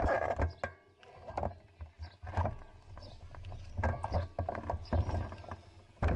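Riding noise picked up by a bicycle-mounted action camera: uneven gusts of low wind rumble on the microphone, with scattered rattles and knocks from the bike.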